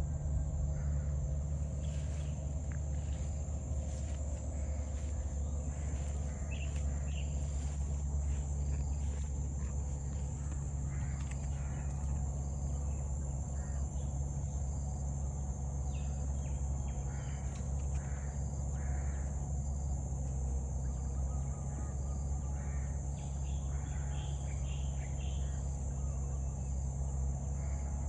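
Natural outdoor ambience: a steady high-pitched insect drone from crickets or cicadas, with scattered short bird calls over a constant low rumble.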